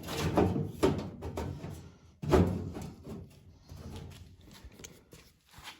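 Stamped sheet-metal replacement floor pan being set into an early Ford Bronco body for a test fit: a run of metal knocks and rattles, the loudest thump about two and a half seconds in, then quieter handling.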